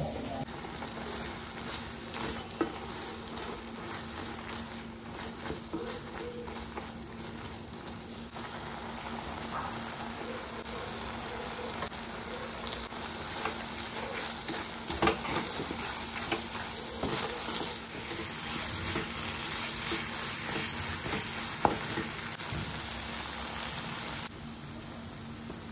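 Grated carrots cooking in milk and ghee in a nonstick pan, sizzling as a spatula stirs and scrapes through them, with occasional sharp knocks of the spatula against the pan over a steady low hum.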